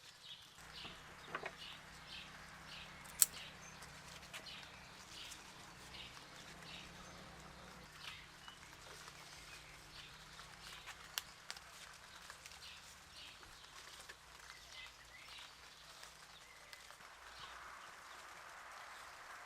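Birds chirping over and over in short, high calls, faint, with one sharp click about three seconds in.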